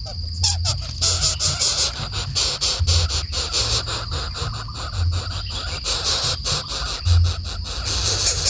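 Insects chirring in a steady high tone, with many sharp clicks and crackles over it and an uneven low rumble.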